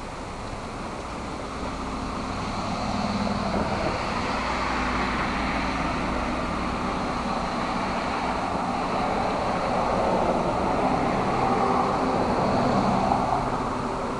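A vehicle passing on a rain-wet road, its tyre hiss swelling over a couple of seconds, staying up, and fading near the end, over the steady hiss of rain.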